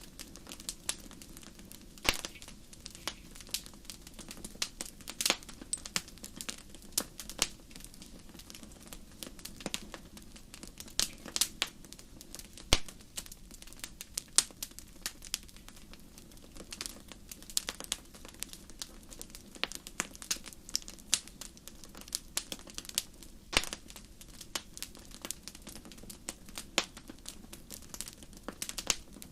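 Wood fire in a fireplace crackling: irregular sharp pops and snaps, a few louder than the rest, over a steady low rush of the flames.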